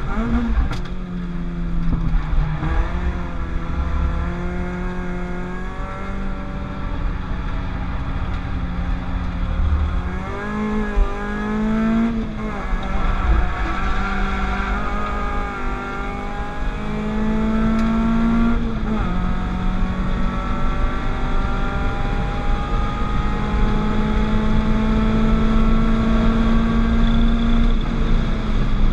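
Peugeot 205 GTI with a 206 RC 2.0 16-valve four-cylinder engine accelerating through the gears. The engine note climbs and drops back at each shift several times, then makes one long, slow climb in the last third.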